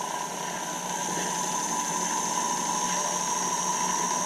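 Levin jeweler's lathe's electric motor running under variable-speed control, a steady mechanical hum with a high whine that grows slowly louder. The drive belts are worn out.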